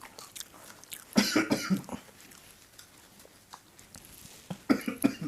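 A person coughing twice, a short bout about a second in and another near the end, as the chili heat of the super-hot chip catches the throat.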